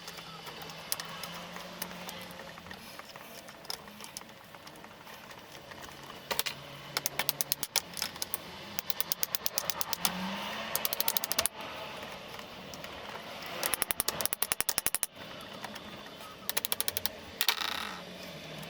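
Ratchet screwdriver clicking in quick bursts of about ten clicks a second, six or seven bursts with pauses between them, as small screws are driven in.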